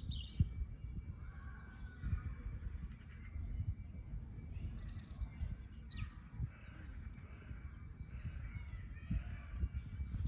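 Wild birds chirping and trilling in short, scattered calls over a low background rumble, with a few soft low thumps.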